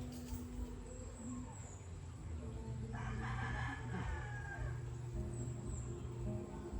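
A rooster crowing once, about three seconds in: a call of about a second and a half that falls in pitch at the end. Steady low tones sound underneath.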